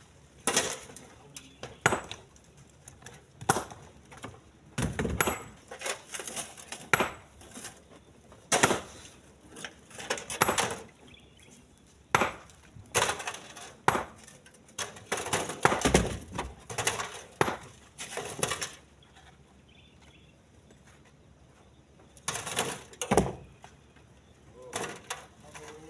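Split stones being loaded by hand into a truck's bed: irregular sharp knocks and clatters of rock against rock and the truck bed, one after another, with a pause of a few seconds about three quarters of the way in.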